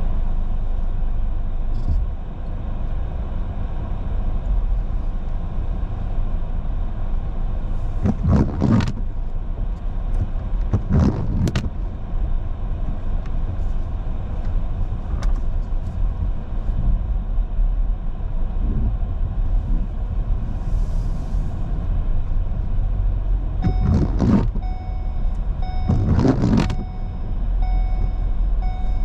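Car driving: a steady low rumble of engine and tyres on the road. A few brief louder noises come about a third of the way in and twice near the end, along with a faint repeating beep.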